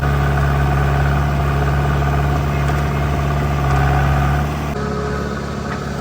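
Heavy diesel engine running steadily, its low tone shifting and dropping a little about three-quarters of the way through.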